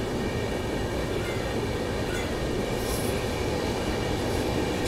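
Duronto Express passenger train running, a steady rolling noise of the coach and wheels on the rails heard from on board.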